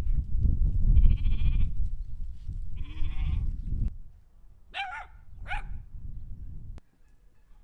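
Sheep or goats bleating: two long wavering bleats about a second and three seconds in, then two shorter, higher calls, over a low rumble that cuts off suddenly near the end.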